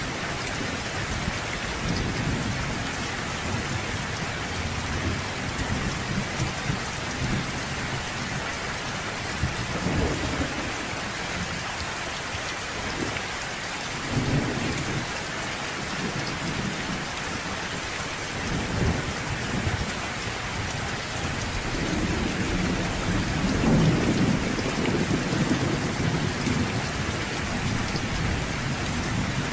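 Steady rain hissing, with low rolls of thunder rumbling in and out, the strongest about three-quarters of the way through.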